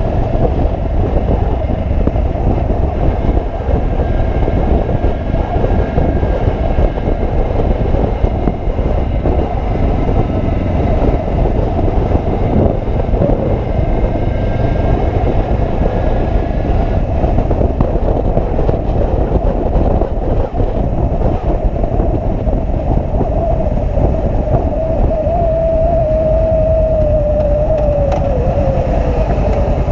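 Motorcycle riding along: a steady heavy rush of wind and road noise over the engine. Over the last few seconds the engine's tone drops in pitch as the bike slows.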